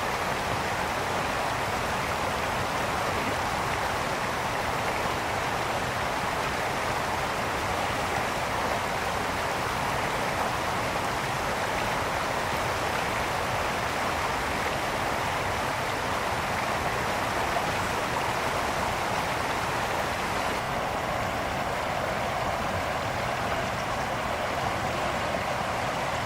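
A brook flowing over rocks: a steady, even rush of water.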